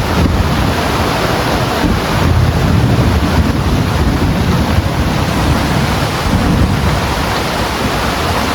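Heavy rain falling steadily, with gusts of wind buffeting the microphone in low rumbles.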